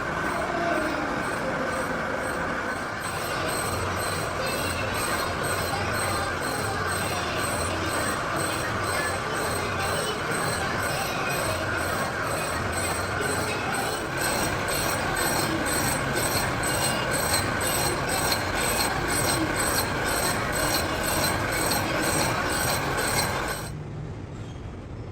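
A workshop machine running with a steady high-pitched squeal and rapid, evenly spaced ticking, which stops abruptly near the end.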